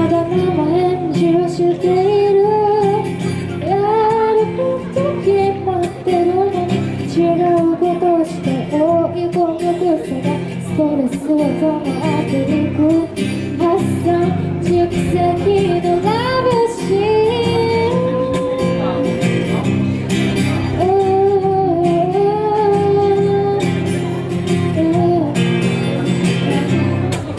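A woman singing a song live with guitar accompaniment.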